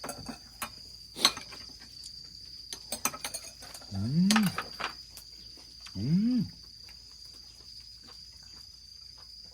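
Crickets chirring steadily, with scattered clicks of cutlery and dishes, the sharpest about a second in. Someone eating gives two appreciative "mm" hums, about four and six seconds in.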